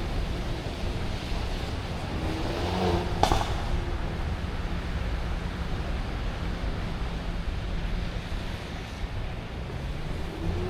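Urban street traffic ambience: a steady low rumble of passing cars, with a single sharp click a little over three seconds in.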